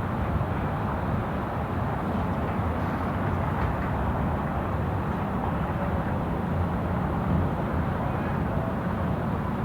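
Steady city street ambience: a low, even rumble of distant traffic with a general urban hum and no single event standing out.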